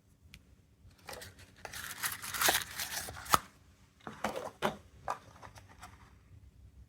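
Plastic crinkling and rustling as it is handled, in two bouts with a few sharp clicks, the loudest click about three and a half seconds in.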